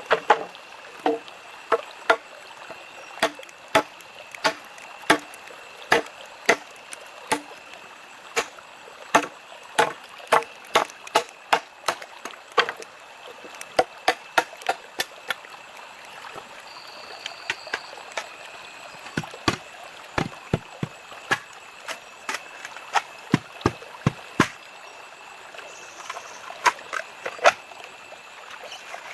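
Irregular sharp knocks, about one or two a second and sometimes in quick clusters, over a steady background hiss with a thin, constant high tone.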